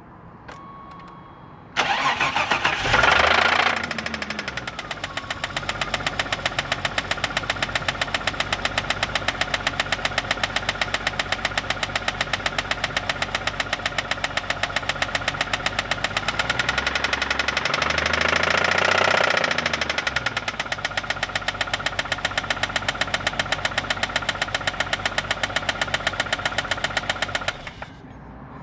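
1989 BMW 325i E30's 2.5-litre straight-six engine starting and idling with a steady, rapid knock that has only just appeared. It revs up briefly twice and is switched off near the end.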